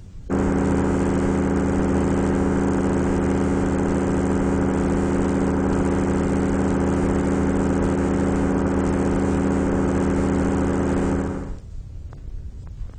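Synthesizer simulation of tinnitus: a steady low hum of several stacked tones with a hiss above, starting abruptly and cutting off suddenly about eleven seconds in, followed by faint hiss and clicks.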